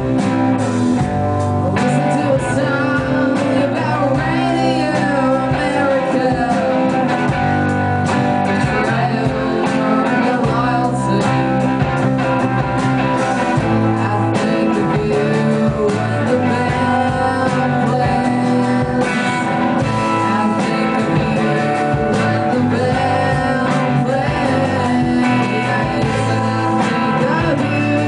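A rock band playing a song live, with electric guitar and singing.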